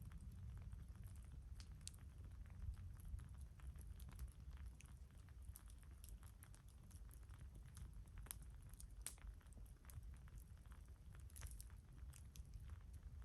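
Campfire of burning wood crackling: faint, irregular pops and snaps throughout, over a low steady rumble.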